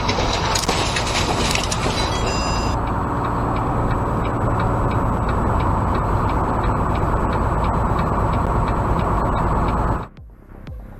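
Loud, steady rumbling noise like a vehicle running, with a regular light ticking from about three seconds in. It cuts off suddenly near the end and gives way to music with a beat.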